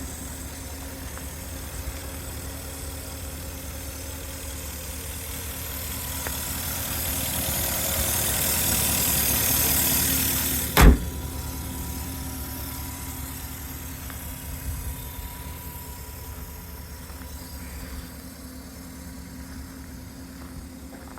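2005 Porsche Cayenne Turbo's twin-turbo V8, its secondary catalytic converters deleted, idling steadily. A hiss swells over a few seconds and stops at a single loud thump about 11 seconds in, after which the idle carries on.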